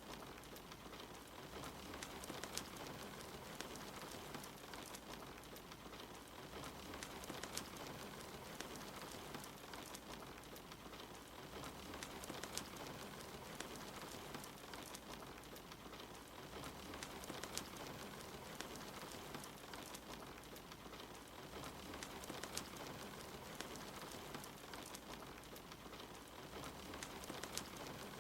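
Steady rain hiss mixed with a wood fire crackling, with frequent small sharp pops scattered through it.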